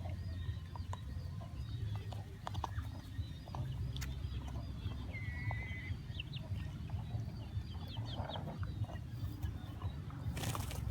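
Dogs gnawing and crunching a cow bone in scattered short clicks, with chickens clucking and chirping in the background and a steady low rumble underneath.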